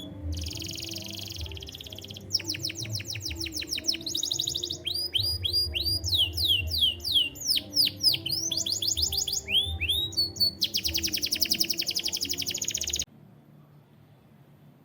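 Domestic canary singing: a string of rapid trilled phrases, each a fast run of repeated notes that changes pitch and speed every second or two. The song cuts off suddenly near the end.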